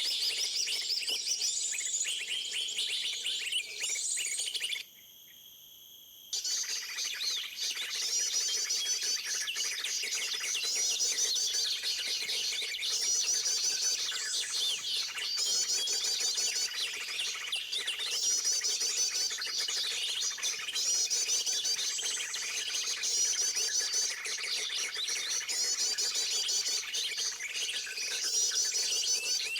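Dense, fast chirping and twittering of many small birds, breaking off suddenly for about a second and a half about five seconds in.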